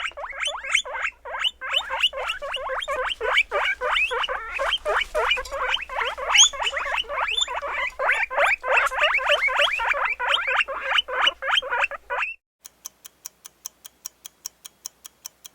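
Guinea pig squeaking in a rapid, continuous run of short high squeaks. It stops suddenly about twelve seconds in, and a clock ticks steadily, about four ticks a second, as a countdown.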